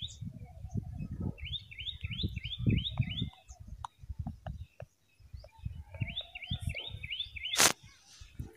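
A small bird chirping in quick runs of short, repeated chirps, over uneven low background noise. There is a single sharp knock about three-quarters of a second before the end.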